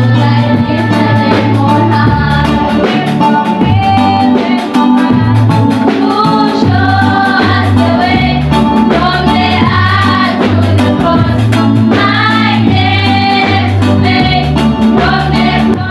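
A vocal group singing a gospel song together over instrumental backing with a steady bass line and a regular beat.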